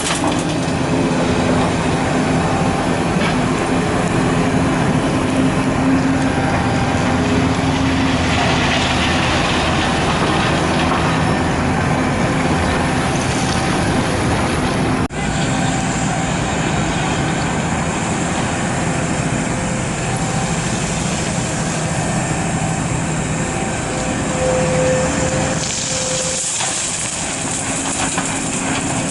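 Large hydraulic excavator's diesel engine running steadily under load while digging and loading. There is a brief sudden dropout about halfway through.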